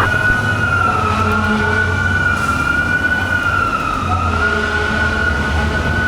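Fire truck's electronic siren sounding a slow wail, its pitch wavering gently and dipping about four seconds in. A steady low engine rumble runs under it.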